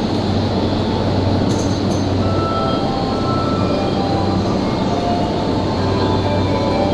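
Steady low hum and rumble of a JR E233-1000 series electric train standing at a station platform, with a few faint short tones in the background.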